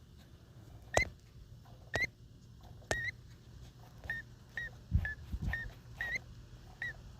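Dog whimpering: a run of short, high-pitched whines, about one every half second to a second, the first few with a sharp click alongside.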